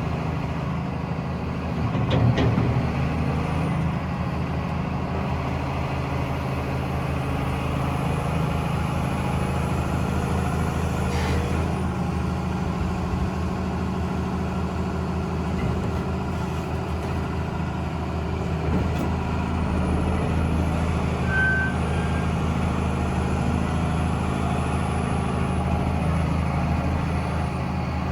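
Cat 336EL hydraulic excavator's six-cylinder diesel engine running steadily. A single short beep sounds about three quarters of the way through.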